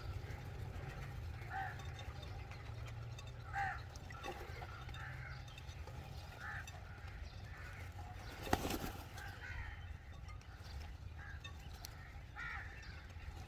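Crows cawing in short calls every second or two, over a steady low hum, with one sharp knock about eight and a half seconds in.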